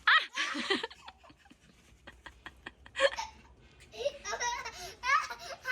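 People laughing: a loud burst of laughter at the start, a quieter stretch with a few light clicks, then more laughter from about four seconds in.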